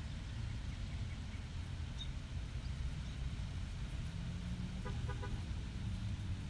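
Steady low background rumble, with a brief run of quick chirpy notes about five seconds in.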